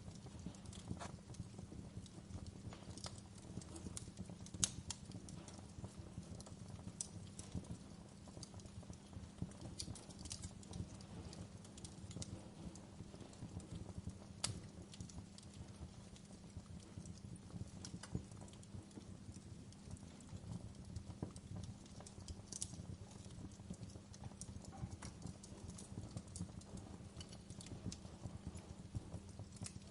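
Wood campfire burning: a low steady rumble with irregular sharp crackles and pops of the wood.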